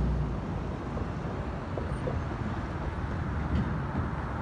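Steady low rumble of a slowly moving passenger train being pushed along the track by a 2-8-2 Mikado steam locomotive, mixed with wind buffeting the microphone. No distinct exhaust beat stands out, only a few faint ticks.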